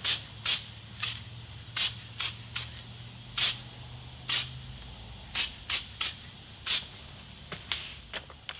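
Aerosol spray can squirting in short bursts, about fourteen quick sprays spread unevenly, with a faint low hum under the first half.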